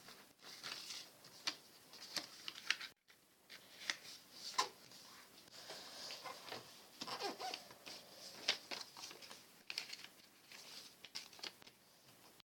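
A sheet of paper being folded and creased by hand: irregular rustling and short sharp creasing strokes as the corners are folded in to the centre.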